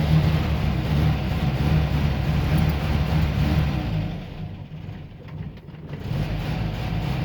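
The Moskvich-403's four-cylinder petrol engine runs steadily on its first start after no overhaul at all. About four and a half seconds in it sags and stumbles, close to stalling, and about a second later it picks back up to a steady run.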